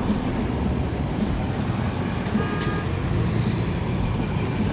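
Steady low outdoor background rumble, with a short faint two-tone beep about two and a half seconds in.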